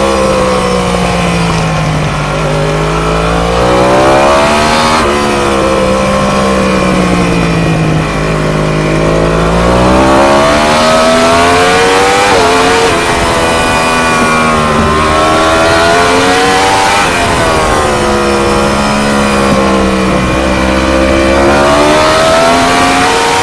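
Onboard sound of a 1000 cc ST1000 racing motorcycle engine at race pace. Its pitch repeatedly drops as the bike slows and climbs as it accelerates, with sudden jumps at the gear changes.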